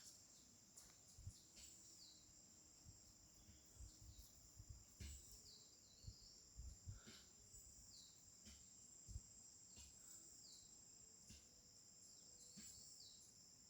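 Faint, steady high-pitched insect chorus from the forest, with short falling chirps repeating every second or so and a few soft low thumps.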